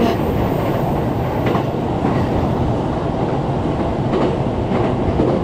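Train running along the track with a steady rumble, the wheels clicking over rail joints a few times.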